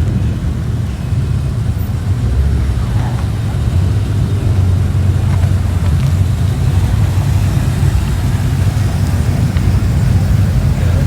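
Car engines running at low revs in slow-moving traffic, a steady low rumble.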